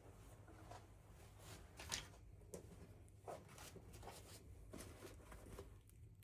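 Faint handling noises: soft rustling and scattered light clicks of small objects being handled, with one sharper click about two seconds in.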